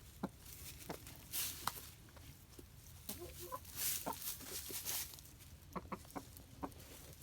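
Hens clucking in short, scattered clucks and a few soft warbling notes, with brief rustling scratches as they dig at the ground for food.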